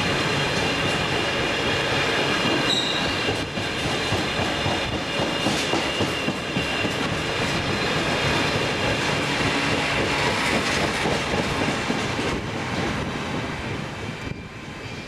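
A train running past on the track, a steady rumble of wheels on rail with a thin high-pitched squeal over it; it falls away about a second before the end.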